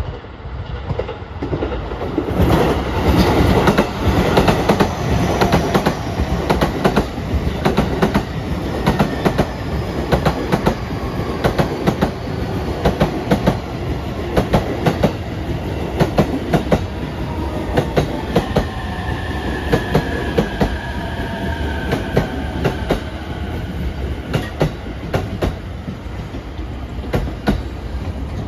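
Wheels of a JR Utsunomiya Line electric commuter train clacking over rail joints as it runs into the station at low speed: sharp clicks, often in quick pairs, over a steady rumble of the cars. A faint falling tone in the second half, as the train slows.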